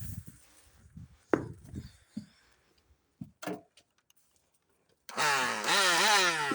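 Handheld vacuum cleaner's motor running with a loud siren-like wail, its pitch swinging up and down over and over, starting about five seconds in. Before it come a few scattered knocks and one sharp click.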